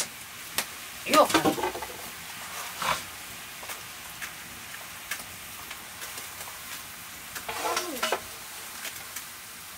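Green nettle leaves frying in a wok over a wood fire: a steady sizzle with scattered sharp clicks. A short voice is heard about a second in and again near the end.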